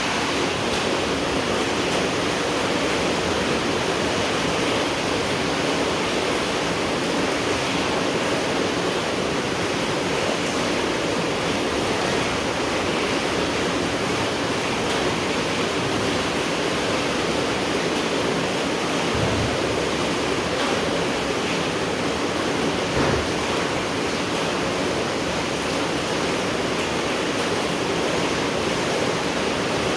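Steady rainfall, an even hiss with no let-up, with a soft low thump about three-quarters of the way through.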